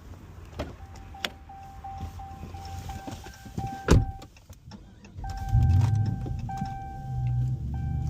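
Car sounds: a steady electronic chime tone that stops and starts, a couple of sharp clicks, and a loud thump a little before four seconds in, like a car door shutting. A low rumble follows from about five seconds in.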